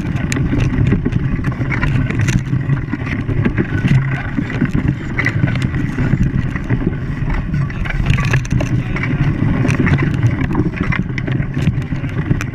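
An engine running steadily, with frequent short clicks and knocks over it.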